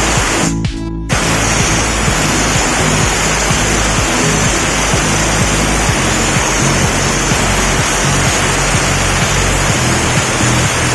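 Background music over a loud, steady hiss of a steam-wash jet spraying, with a brief dropout a little over half a second in.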